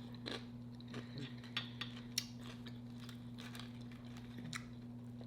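Quiet close-up chewing with scattered soft mouth clicks, over a steady low electrical hum.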